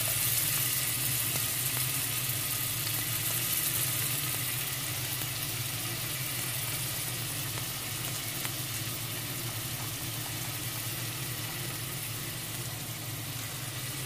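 Julienned ginger sizzling steadily in hot oil in a wok, with a steady low hum underneath.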